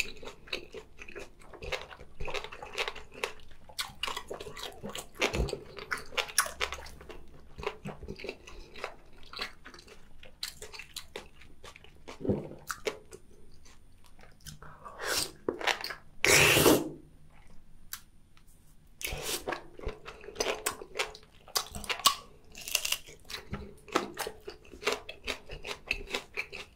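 Close-miked chewing and biting of boiled octopus in a spicy red pepper sauce: many wet mouth clicks and squelches, with a few louder, longer wet sounds about halfway through.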